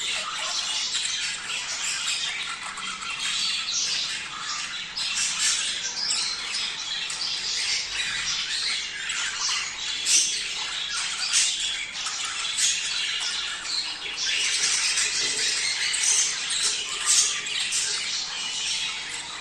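A flock of budgerigars chattering and squawking, many short calls overlapping without a break: the busy chatter of breeding budgies.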